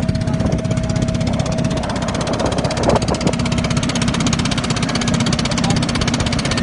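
Boat engine running steadily under way, a loud, fast, even chugging.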